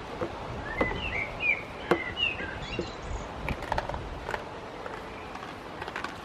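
A bird chirping, a quick run of short up-and-down chirps in the first half, with a few light clicks and knocks scattered through, over steady low background noise.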